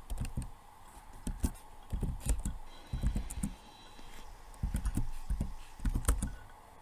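Irregular soft knocks and light clicks, a few a second, coming in uneven clusters.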